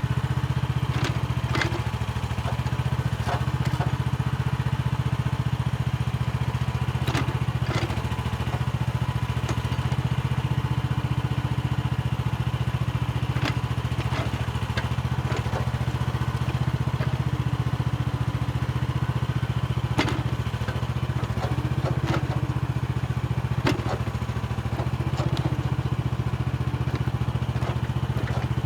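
Mini excavator's engine running steadily under work while it digs soil, with scattered sharp knocks and clatter throughout.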